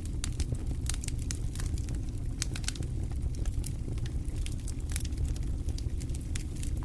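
Wood fire crackling in a fireplace: frequent, irregular sharp pops and snaps over a steady low sound of burning.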